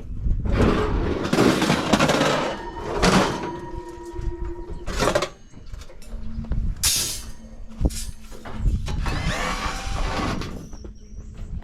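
Sheet metal of a scrap appliance being pried, scraped and clattered during teardown, with sharp knocks and brief ringing from the panels. A steady low hum comes in about six seconds in.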